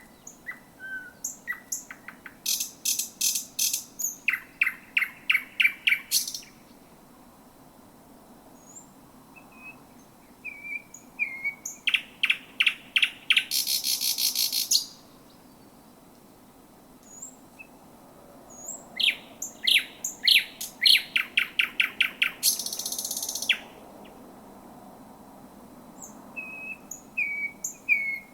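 Thrush nightingale singing close to the microphone in three loud phrases with short pauses between, and a fourth beginning near the end. Each phrase is a rapid series of repeated clicking notes, the second and third ending in a harsh rattle.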